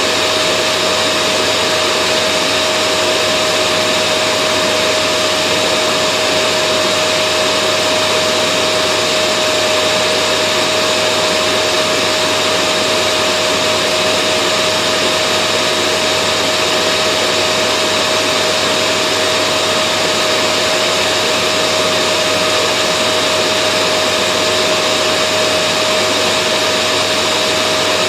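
Vacuum cleaner running steadily: a constant whooshing hiss with a steady whine, unchanging throughout.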